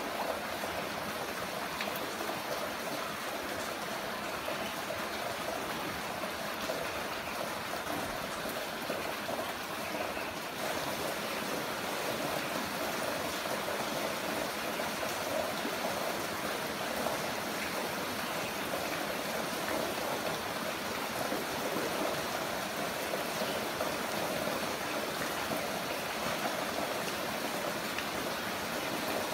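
Heavy rain falling with a steady, even rush of water.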